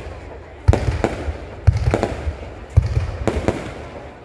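Aerial fireworks shells bursting in a quick series of booms, about six in four seconds, each trailing off in a low rumble.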